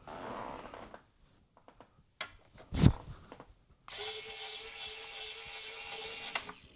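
Small electric screwdriver motor running in one steady whine for about two and a half seconds, backing out one of the screws that hold an iMac's internal support bracket. A sharp click comes about a second before it.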